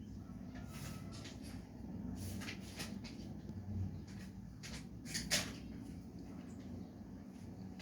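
Cats playing: scattered light taps and scrapes over a steady low hum, the sharpest about five seconds in.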